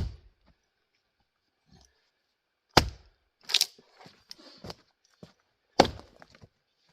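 Axe splitting grand fir rounds on a chopping block: three sharp blows about three seconds apart, with smaller knocks and clatter of wood between them.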